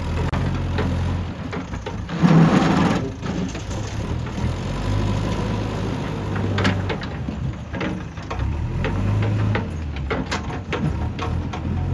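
JCB 3DX backhoe loader's diesel engine running steadily. About two seconds in there is a loud, rough rushing burst lasting under a second, and later a scatter of sharp knocks and clanks.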